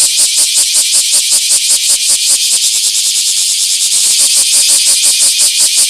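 Bear cicada (Cryptotympana facialis) singing its loud, rasping pulsed call, about seven pulses a second, quickening briefly in the middle.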